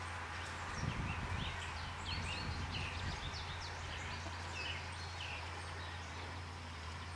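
Birds chirping: many short, high calls in quick succession over a steady low hum, with a brief low scuffling about a second in.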